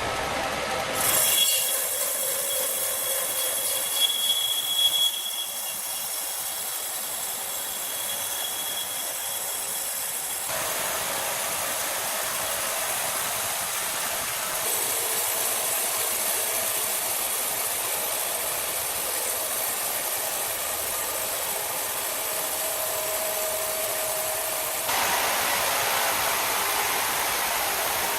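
Power tool working wood, a steady noisy sound that changes abruptly about a second in, again after ten seconds, around fifteen seconds and near twenty-five seconds, as if cut between different machines or passes.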